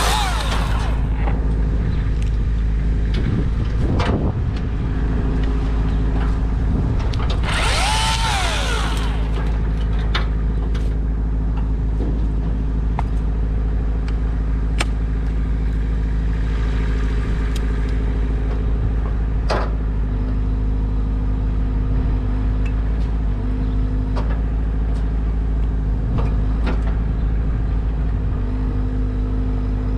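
An engine runs steadily throughout, with scattered short clicks and knocks over it and a brief rise and fall in pitch about eight seconds in.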